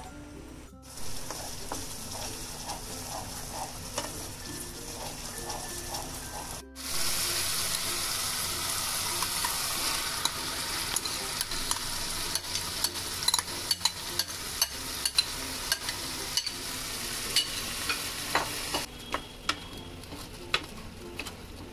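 Masala paste sizzling in hot oil in a pan while it is stirred and scraped with a wooden spatula. About seven seconds in, the sizzle gets louder and is dotted with frequent sharp spatula scrapes and taps as marinated chicken is stirred into the paste. It eases off a little near the end.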